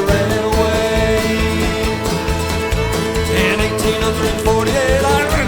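Irish folk band playing a fast, high-energy song, with fiddle and guitar over a steady driving beat.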